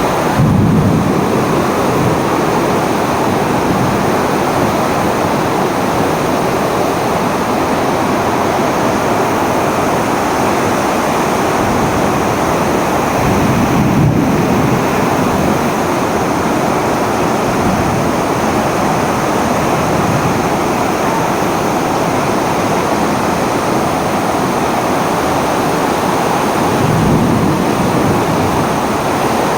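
Storm wind rushing steadily and loudly, with gusts buffeting the microphone about a second in, midway and near the end.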